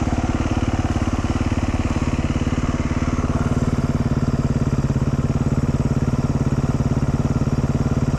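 Dual-sport motorcycle engine running steadily at an even, low pace on a rough trail, its firing pulses coming fast and regular.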